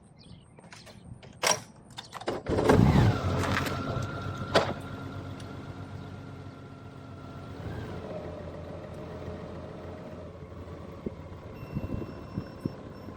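Honda Gold Wing motorcycle engine started about two and a half seconds in, after a click, then idling steadily; the engine note shifts slightly about eight seconds in.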